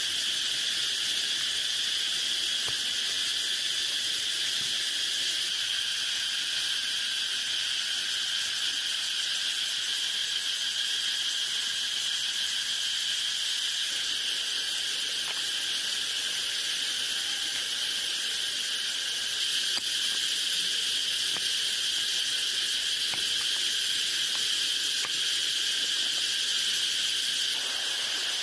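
Steady chorus of insects, a continuous high-pitched drone with a fainter, lower band beneath it.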